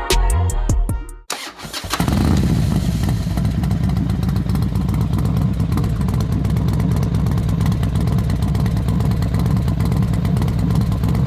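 Background music ends about a second in. Then a Royal Enfield Interceptor 650's parallel-twin engine starts and settles into a steady, even running rumble.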